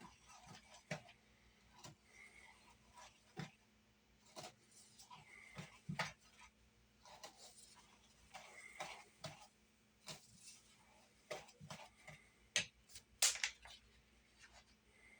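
Faint, irregular clicks and knocks of a utensil against a mixing bowl as flour, salt and a cornstarch-water slurry are stirred into dumpling dough, with a louder cluster of knocks near the end.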